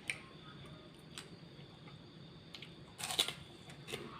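Close-up eating sounds: scattered soft clicks of chewing, and a short crunchy bite about three seconds in, with a smaller one near the end.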